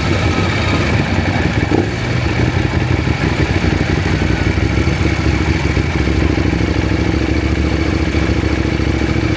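KTM 790 Adventure's parallel-twin engine running steadily at low revs.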